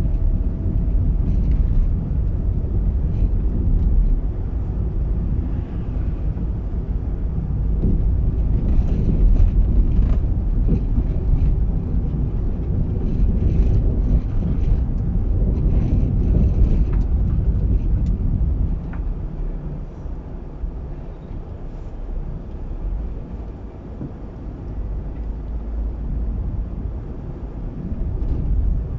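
A moving car's road and engine noise: a steady low rumble that eases somewhat about two-thirds of the way through.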